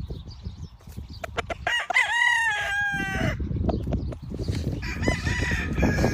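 Gamefowl rooster crowing: one loud crow about two seconds in that falls in pitch and holds, then a fainter second crow near the end, over a low rumble.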